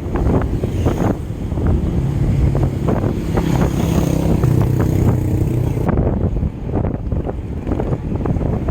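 Wind rushing over the microphone while riding, with frequent short knocks and rattles, and a low engine hum that rises and fades between about two and five seconds in.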